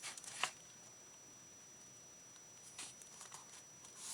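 Paper and craft supplies handled on a desk: a light click about half a second in, then soft brief rustles near the end, otherwise quiet room tone.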